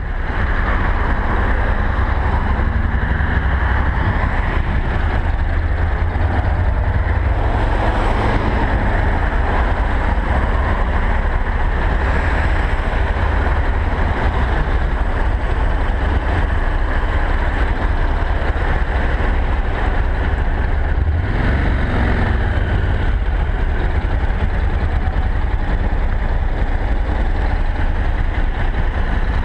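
Honda NC700X's 670 cc parallel-twin engine running at low speed in slow traffic, a steady low rumble mixed with road noise.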